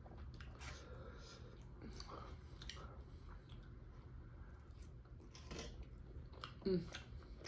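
A person chewing food close to the microphone: soft, irregular wet mouth clicks and smacks. A brief voiced sound near the end.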